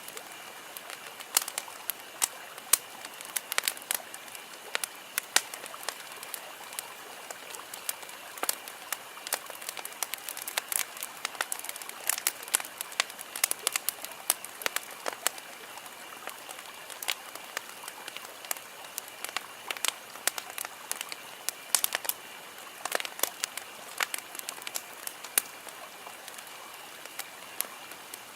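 Wood campfire crackling: irregular sharp pops and snaps, several a second, over a steady hiss of burning.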